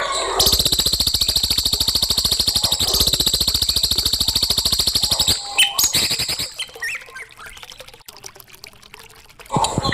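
Recorded songbird song: a long, fast trill of rapidly repeated high notes lasting about five seconds, then a few other notes and a quieter stretch, with the fast trill starting again near the end.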